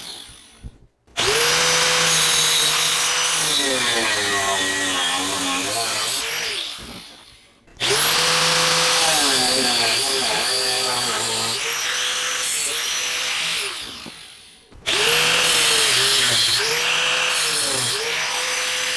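Angle grinder cutting steel angle iron in three runs, each starting suddenly, the motor whine sagging and wavering as the wheel bites into the metal, then spinning down in the gaps between cuts.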